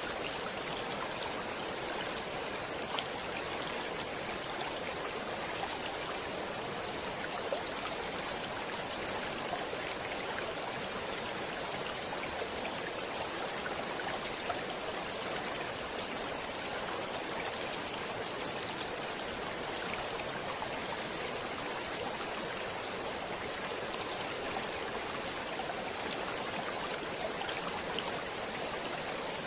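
Stream water running over stones, a steady even rushing with small splashes and trickles.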